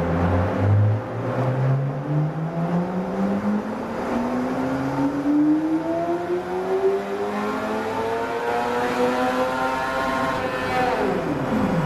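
Yamaha R6 inline-four sport-bike engine with its stock exhaust making a full-throttle dyno pull. Its pitch climbs steadily for about ten seconds toward redline, then drops sharply near the end as the throttle is shut.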